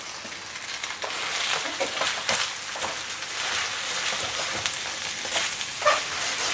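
Chicken chow mein noodles and vegetables sizzling in a hot pan while being stirred and tossed, with a steady frying hiss and scattered clicks and scrapes of the utensil.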